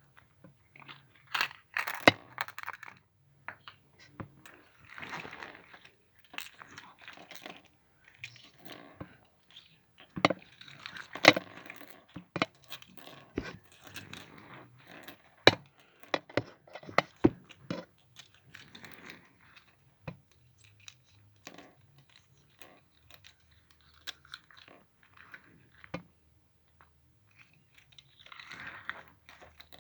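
Slime with Go stones mixed into it, being kneaded and pressed by hand: crackling squishes broken by irregular sharp clicks of the stones knocking together.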